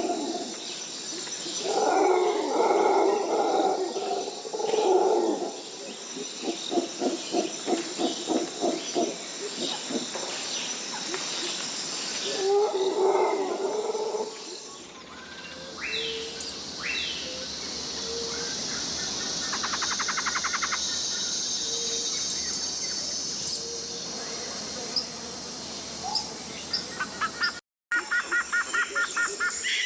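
Tropical rainforest wildlife: repeated animal calls in the first half, one of them a fast pulsing series. About halfway the sound changes abruptly to a steady high insect chorus with bird chirps and quick trills. There is a brief dropout near the end.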